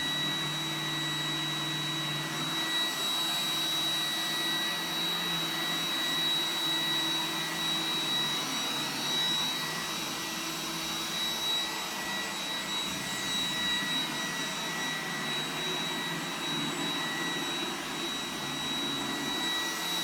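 iRobot Roomba 980 robot vacuum running on carpet in its high-power carpet mode: a steady suction fan with a constant high whine over a rushing noise, and a lower hum that drops away about three seconds in.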